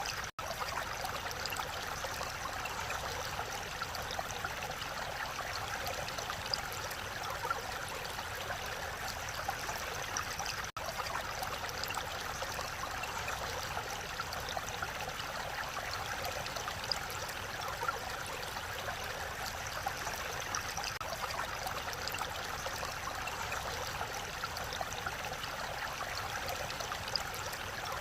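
Mountain valley stream flowing in a steady, even rush of water, with two momentary dropouts in the sound, just after the start and about ten seconds in.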